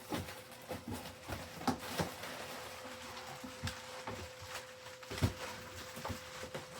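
Packing tape and plastic protective wrap being pulled and handled: a continuous crinkling and crackling with many irregular clicks and snaps. A faint steady hum runs underneath.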